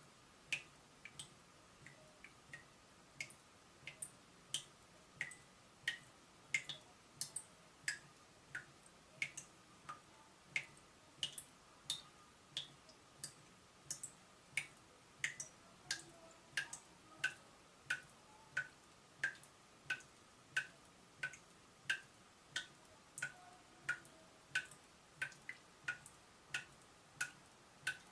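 A leaking tap dripping: single water drops falling one after another, about one and a half a second, each a short, sharp drip.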